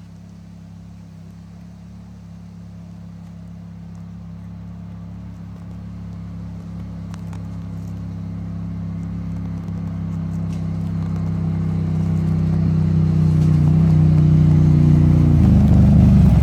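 Engine of an off-road four-wheeler running at a steady pitch and growing steadily louder as it approaches, the sound changing just before it arrives.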